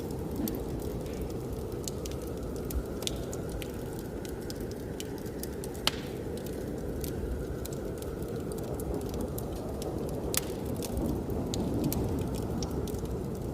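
A wood fire crackling, with irregular sharp pops; two louder snaps come about six and ten seconds in. Under it runs a steady low rush of blizzard wind.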